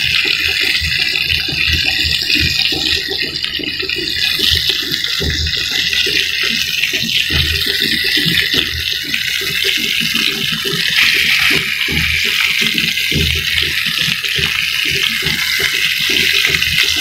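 Pork-stuffed tomatoes frying in hot oil: a steady sizzle with frequent small crackles and pops.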